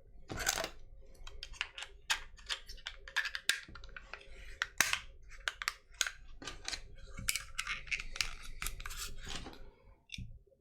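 Small plastic parts and wires handled by hand, with many irregular light clicks, taps and rustles, as a wired electronics board is packed back into its 3D-printed plastic case and the case is closed.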